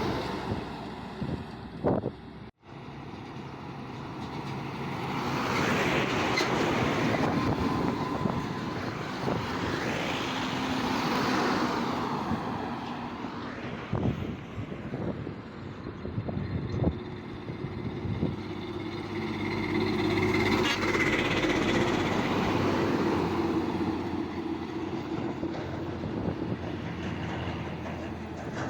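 Heavy trucks driving past, their engine drone and road noise swelling and fading as each one goes by. The sound is cut off briefly about two and a half seconds in.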